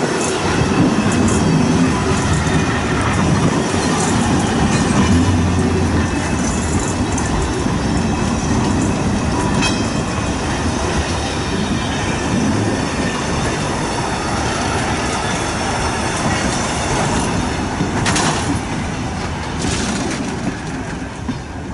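Heritage railway coaches and a goods van rolling past at close range, their wheels rumbling steadily over the track, with a few sharper clacks near the end.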